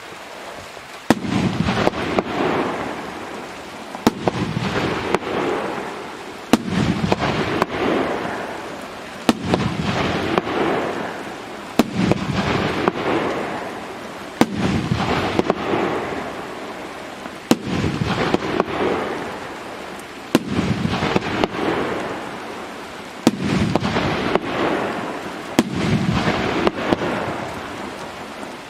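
A 25-shot consumer firework cake firing, one shot about every two and a half to three seconds, about ten in all. Each shot is a sharp report followed by a noisy fizzle of about two seconds that fades out.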